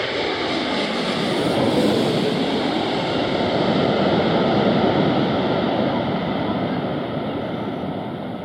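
Jet airliner passing low overhead near the runway, its engines making a loud, steady rush of noise that fades over the last couple of seconds.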